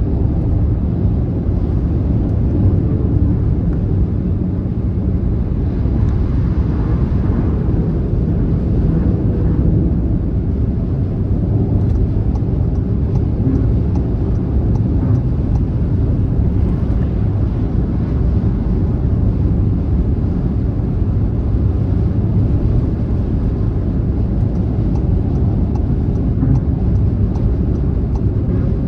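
Car driving along a motorway at speed: a steady, deep rumble of road and tyre noise with engine hum, unbroken.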